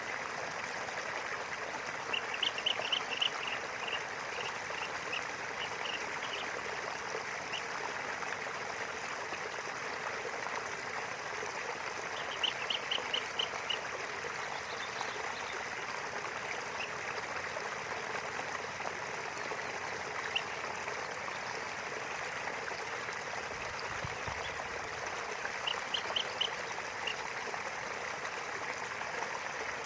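River water flowing steadily, with a bird calling in three quick runs of short high notes: near the start, midway and near the end.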